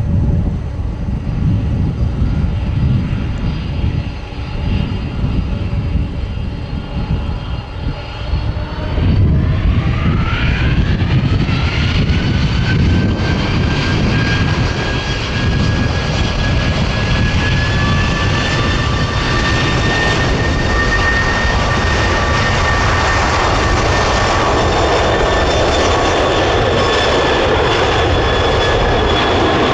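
Boeing 747-400 freighter's four jet engines: a low rumble, then about nine seconds in a steeply rising whine as they spool up, settling into a loud steady run with high whining tones, typical of takeoff power being set.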